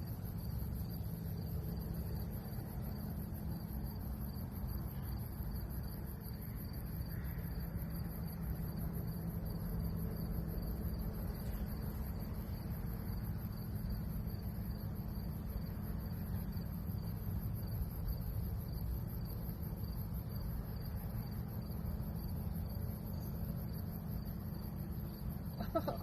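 Crickets or other night insects calling in a steady, unbroken drone over a constant low rumble.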